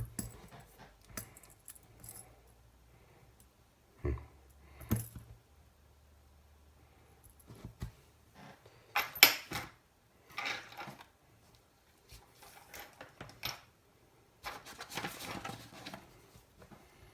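Small metal parts and tools being handled: scattered clicks and clinks with bursts of rustling, the loudest clink about nine seconds in.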